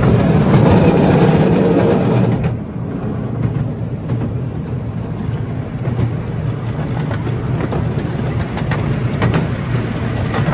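Narrow-gauge miniature railway train running, heard from the carriage: a steady low rumble of wheels on track with scattered clicks, louder for the first couple of seconds and then settling a little quieter.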